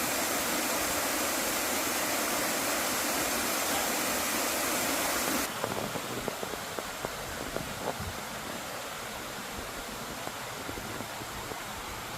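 Steady rush of flowing water. About five and a half seconds in it drops suddenly to a quieter rush with a few small scattered clicks.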